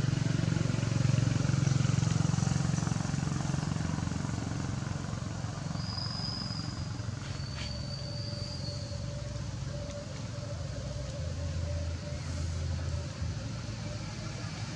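Low engine rumble of a passing motor vehicle, loudest in the first few seconds, then easing off. Two brief high, thin whistle-like tones come a little past the middle.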